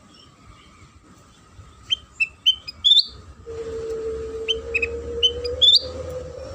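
Kutilang sutra bulbul song used as a lure call: quick, sharp rising chirps in short clusters, the first cluster about two seconds in and another near the end. A steady low hum joins about halfway through.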